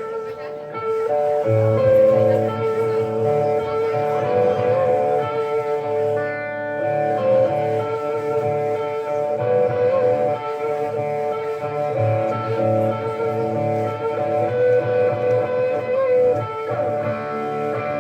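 A live band playing a guitar-led song: electric guitars play a repeating riff over bass, with the low end filling in about a second in.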